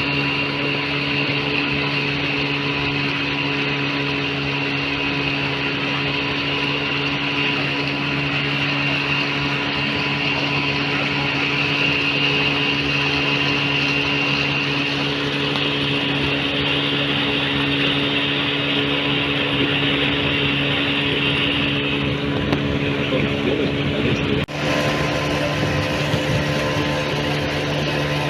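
An engine running steadily at a constant speed, with a low even drone and a hiss on top. About 24 seconds in the sound breaks off abruptly for a moment and resumes slightly changed.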